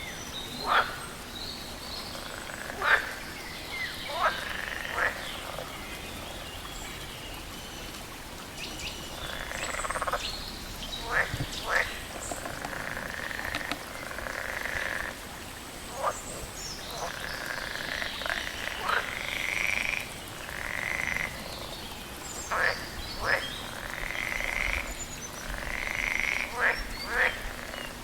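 Frogs calling: short sharp croaks, often two in quick succession, repeated irregularly, with longer drawn-out calls filling the gaps between them.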